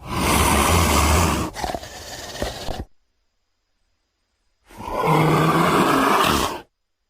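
Two roaring creature sound effects, each about two seconds long and cut off into dead silence; the first fades into a rougher, weaker tail about halfway through.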